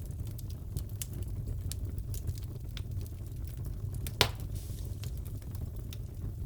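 Wood fire crackling in a fireplace: scattered small crackles over a steady low rumble, with one loud pop about four seconds in.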